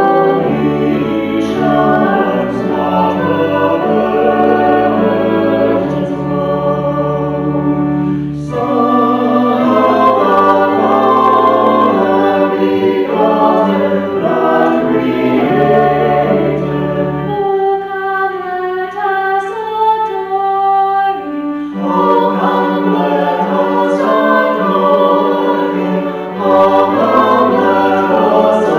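Church choir singing a hymn in parts, over sustained low bass notes that drop out for a few seconds past the middle.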